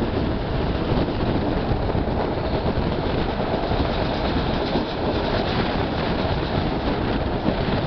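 EFVM passenger train running along the track, heard from a carriage window: a steady, loud noise of the moving cars and wheels on the rails.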